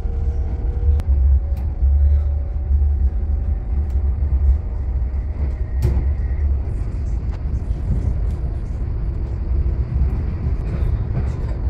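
Passenger train running along the tracks, heard from inside the carriage: a steady low rumble, with a faint high tone through the middle and a sharp click about six seconds in.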